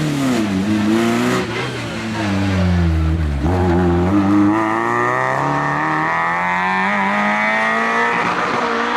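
Rally car engine at high revs on a stage, its pitch rising and falling: a sharp drop about three and a half seconds in, then a slow climb that holds high to the end.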